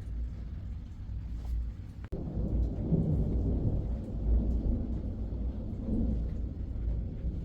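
Storm outside a mountain hut: rain and wind with a deep, steady rumble, cut off for an instant about two seconds in.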